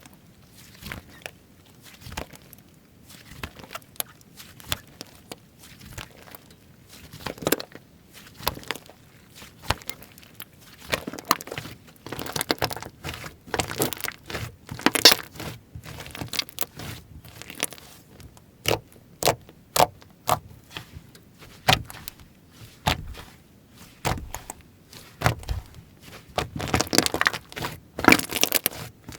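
Hands pressing, squishing and stretching slime, giving irregular sticky clicks and crackles that come thicker near the end.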